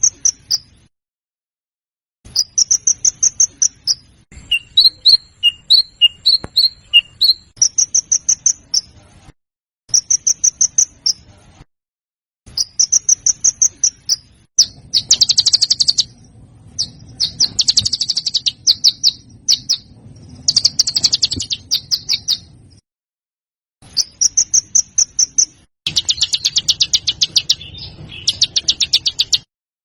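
Songbird song recording: repeated short bursts of high, fast chattering, a run of clear separate whistled notes, and harsh rapid rattles, with dead-silent gaps cut between phrases.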